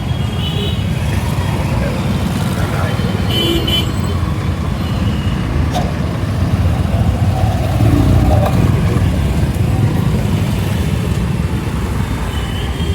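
Steady road and wind noise from riding a scooter through city traffic. Short vehicle horn toots sound from the surrounding traffic near the start and again a few seconds in.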